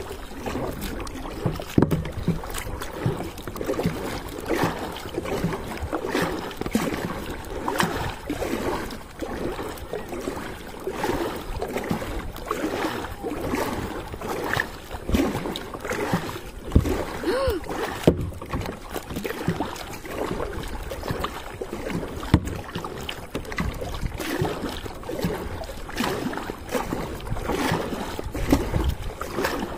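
Kayak paddling on the sea: the paddle dipping and splashing in the water, with water sloshing and irregular light knocks.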